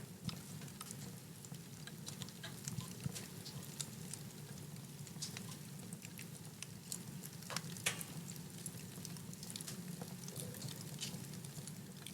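Wood fire in a fireplace crackling: frequent sharp pops and snaps over a steady low rumble of the flames, with one louder pop about eight seconds in.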